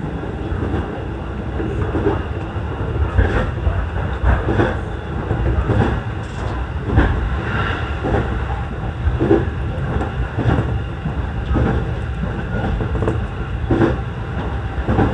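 JR East E233 series electric train running between stations, heard from inside the front car: a steady running rumble with irregularly spaced clacks of the wheels over the rail joints.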